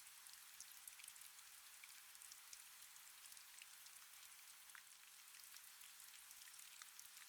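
Faint, steady rain, an even hiss speckled with many small drop ticks.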